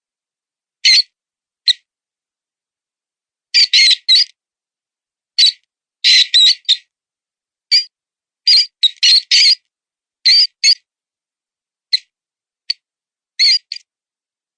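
Mouse distress squeaks from a predator-calling lure: short, high squeaks, some single and some in quick runs of two to four, with silent gaps between them.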